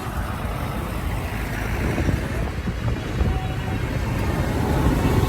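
Tractor engines running as a line of tractors drives past, a steady low rumble.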